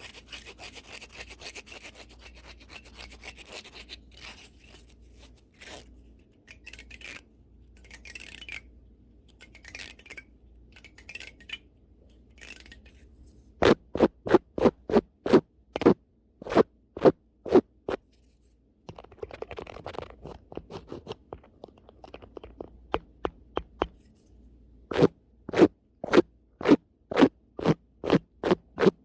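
A brush scraping fast and hard across the camera and microphone. The strokes are scratchy and uneven at first. About halfway it switches to a quick regular back-and-forth of about three strokes a second, breaks off briefly, then picks up again near the end.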